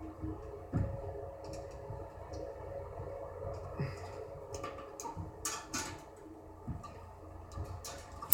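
Scattered light clicks and knocks of hands working inside a furnace cabinet, pulling wires off the transformer, with a sharper knock at the end.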